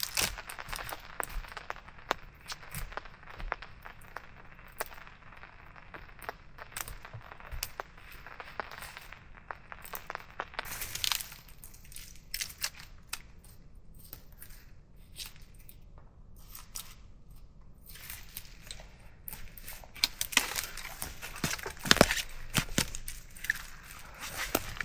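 Irregular rustling and crinkling with many sharp clicks and snaps, as during handling of camp gear; quieter in the middle, with louder snaps bunched near the end.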